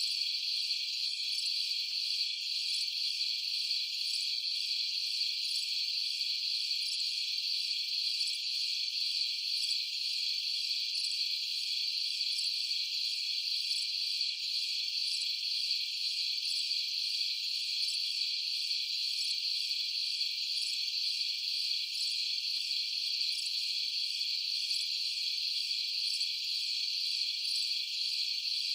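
A steady, high-pitched chorus of crickets and other night insects trilling without a break.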